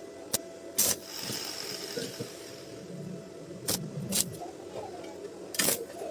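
Sharp metallic knocks and clinks of steel being handled during stick welding: one about a second in, two close together around four seconds, and another near the end.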